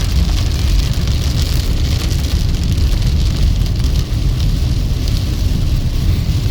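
A car driving through rain: a steady low rumble of engine and tyres under the hiss and patter of rain.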